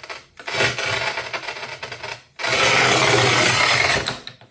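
Angle grinder with a diamond blade cutting tile in two passes: a first rough grinding cut, a short break, then a steadier cut of about a second and a half.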